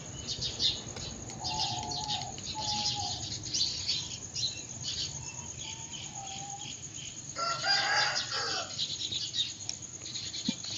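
A rooster crowing, loudest once about seven and a half seconds in, over the constant chirping of small birds and a steady high insect whine.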